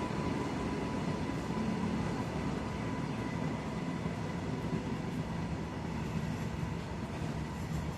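A train running steadily: a continuous rumble with a faint steady whine above it.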